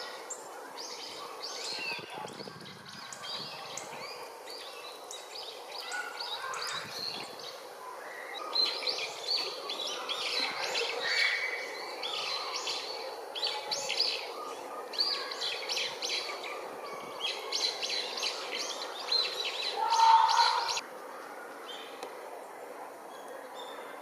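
Azure-winged magpies calling: a busy run of rapid, harsh calls that grows louder about a third of the way in and then cuts off suddenly near the end.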